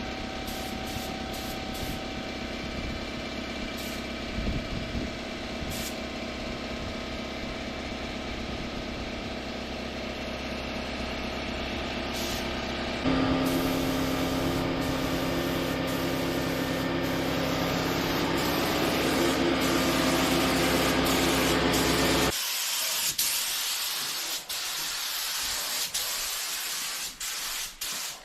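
A motor runs steadily with a hum, changing abruptly about thirteen seconds in. About twenty-two seconds in it stops suddenly, giving way to the hiss of a paint spray gun, broken by short stops.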